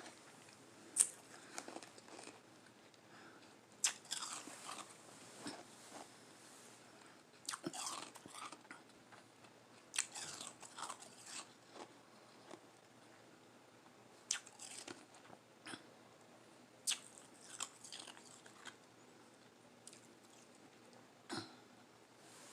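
Close-up bites and chewing of soft crushed ice, irregular crunches with short pauses between them.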